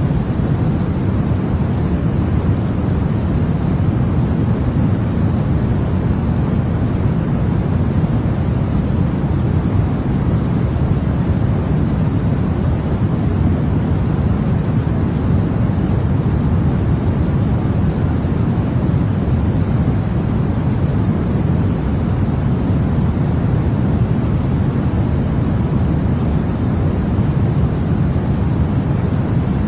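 Continuous baby-sleep white noise: a steady, unchanging hiss, deep and rumbling, with most of its weight in the low range.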